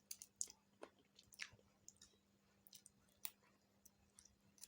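A person chewing food close to the microphone, with scattered wet smacks and sharp mouth clicks, several in the first second and a half and another strong one a little past three seconds.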